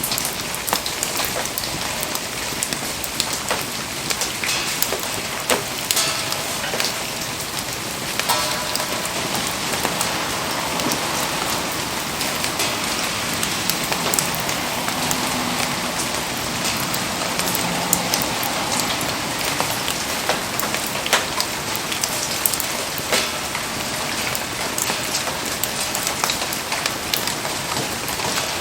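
Steady rain falling, a dense patter with many scattered sharp ticks of single drops or pops.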